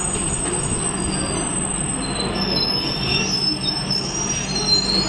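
Indian Railways passenger coaches rolling slowly past at close range: a steady rumble of wheels on rail with a low hum and thin, high wheel squeal over the top.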